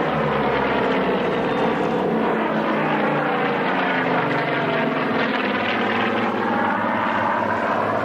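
Piston-engined propeller aircraft droning as it flies past, its engine note slowly shifting in pitch.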